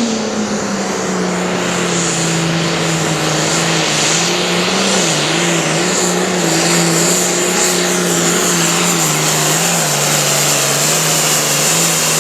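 Pulling-competition engine running hard at full load while dragging a weight-transfer sled down the track, one steady note whose pitch sags slightly as the load builds. The run falls short of a full pull.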